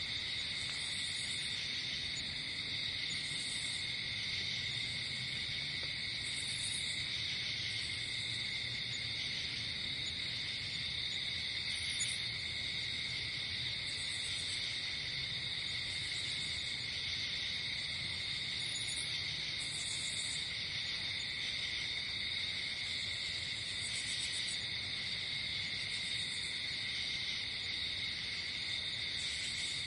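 A night chorus of crickets trilling without a break, a steady high-pitched drone. Shorter, higher insect chirps come in every second or two.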